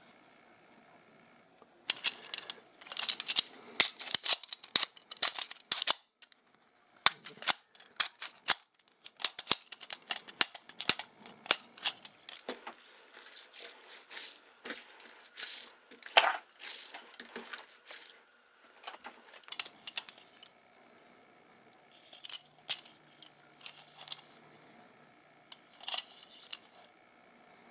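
Sharp plastic clicks, taps and rattles from a plastic Pez toy truck being handled close to the microphone. They come thick and fast for most of the first two-thirds, then thin out to scattered taps.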